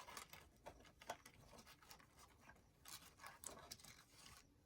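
Faint rustling and light ticks of paper being handled at a work table, a few soft scattered sounds over near silence.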